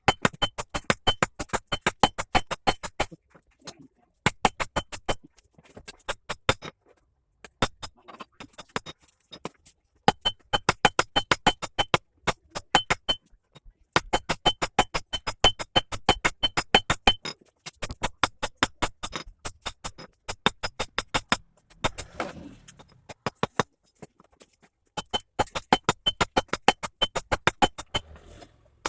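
Hot steel being forged under rapid, evenly spaced hammer blows, about seven a second, many with a light metallic ring. The blows come in runs of a few seconds with short pauses between them.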